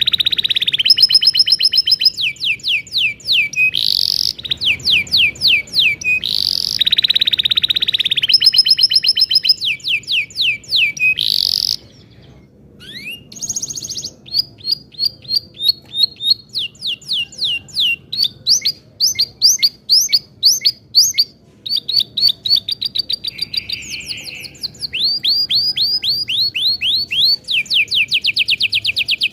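Domestic canary singing long rolling trills of fast repeated notes, with a short break about twelve seconds in.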